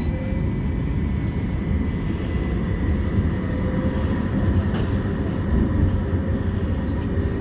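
Inside a moving West Midlands Metro CAF Urbos 3 tram: steady low rumble of the wheels and running gear on the track, with a thin, high steady tone from the drive.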